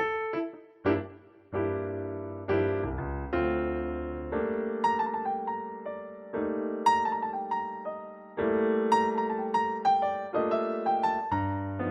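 Background piano music: a gentle melody over held chords, notes struck and left to ring.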